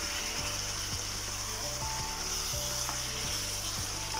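Chicken sizzling steadily in a pan while it is stirred with a wooden spatula. The cooking liquid has cooked off and the meat is dry-roasting. Soft background music runs underneath.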